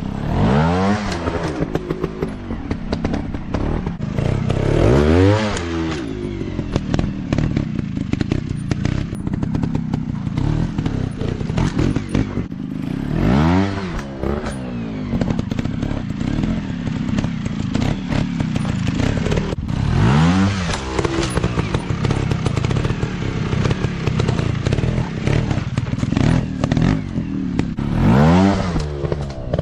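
Off-road dirt bike engines running hard, revving up and back down about five times as the throttle is worked, with knocks and clatter mixed in.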